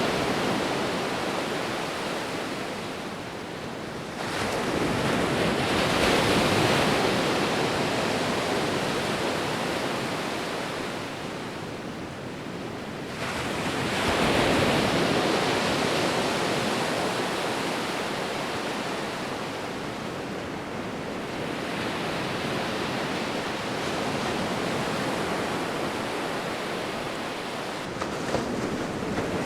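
Ocean waves breaking and washing on the shore: the surf swells up about four seconds in and again around thirteen seconds, then a gentler surge later, with a steady wash in between.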